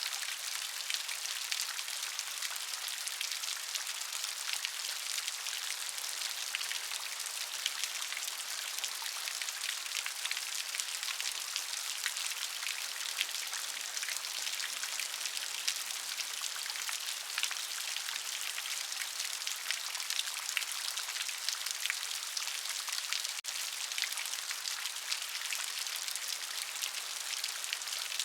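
Steady rain with the close patter of many individual drops, a dense even hiss in the upper range flecked with small clicks.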